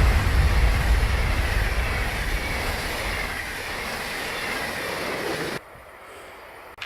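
A train passing on the line and moving away: a loud rail rumble fades steadily, with a faint whine that slowly falls in pitch. About five and a half seconds in it cuts off suddenly to a much quieter background.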